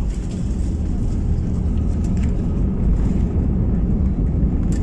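Airbus A320-200 cabin noise: a steady low rumble of the jet engines and rushing air, heard from inside the passenger cabin.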